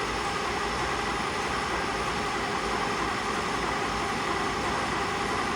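Rotec R2800 seven-cylinder radial engine turned over steadily by its electric starter without firing, cranked to build oil pressure before the first start; a steady starter whine runs over the churning of the engine, and it winds down just at the end.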